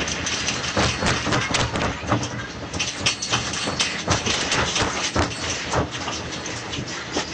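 Continuous rattling and clattering, with many irregular knocks over a steady noise. These are loose objects and a structure shaking during an earthquake.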